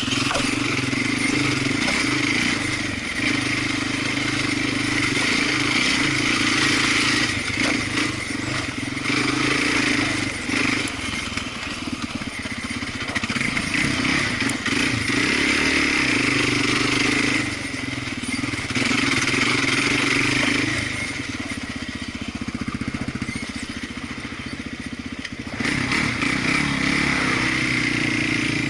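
Off-road vehicle engine running steadily while riding a trail. The engine eases off briefly about two-thirds of the way in, runs quieter for a few seconds after that, and picks back up sharply near the end.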